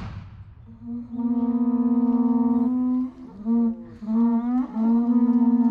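A horn-like wind instrument blown in long, steady notes: one held note, a brief wavering break with sliding pitch, then a second held note.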